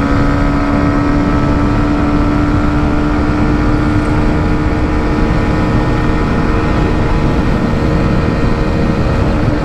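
Hero Xtreme 125R's single-cylinder 125 cc engine running flat out in fourth gear at a steady high pitch, under a rush of wind noise. It is held at the top of the gear, which the rider reads as the limit at about 104 km/h.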